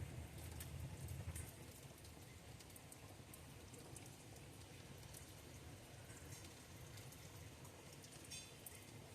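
Heavy rain falling, a faint steady patter of drops, with a low rumble in the first second and a half.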